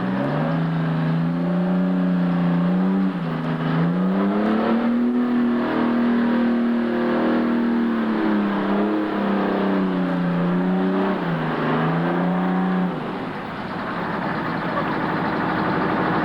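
Mud truck engine revving hard, its pitch climbing and falling several times with the throttle, then dropping away about thirteen seconds in, leaving an even noise.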